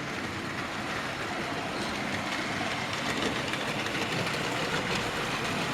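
00 gauge model trains running on the layout's track: a steady rumble of wheels and motor that grows gradually louder.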